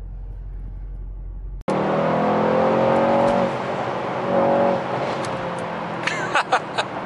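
A low steady hum inside the parked car, then, about a second and a half in, the Mercedes-AMG GT 63 S's twin-turbo 4.0-litre V8 driving through a road tunnel, heard from inside the cabin with tyre and tunnel noise. Its note falls off and picks up again, with a few short sharp cracks near the end.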